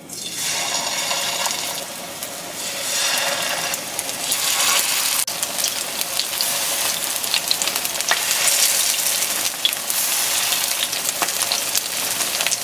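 Batter-coated burdock strips sizzling and crackling in hot cooking oil in a frying pan, getting louder in steps as more pieces are laid in.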